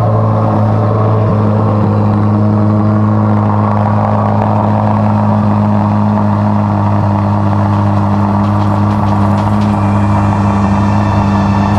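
Chevrolet C8 Corvette's flat-plane-crank V8 idling steadily just after being started.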